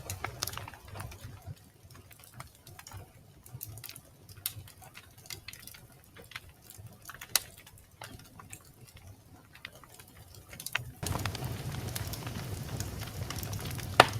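Wood fire in a fireplace crackling, with irregular sharp pops and snaps, one louder pop near the end. A low rumble of the flames fades early on and comes back about eleven seconds in.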